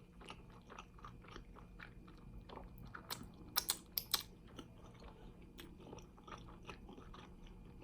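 A person chewing and biting fried chicken wings close to the microphone: soft, wet mouth clicks, with a few sharper crunches about three to four seconds in.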